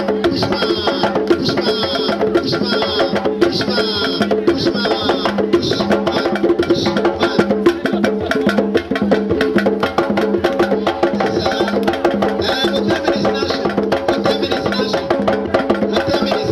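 Percussion-driven music: dense, fast drumming with a wooden clicking over a steady pitched accompaniment.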